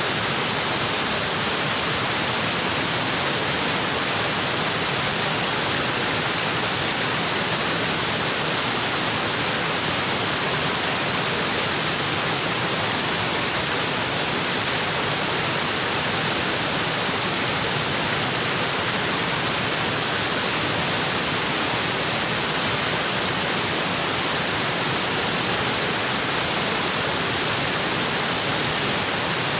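Waterfall: water pouring onto rocks, a steady, even rush with no breaks or changes.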